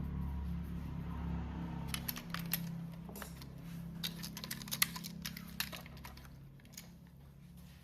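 HO-scale model locomotive running on its track: a steady low mechanical hum with a scatter of light, irregular clicks and rattles from about two seconds in, the hum fading toward the end.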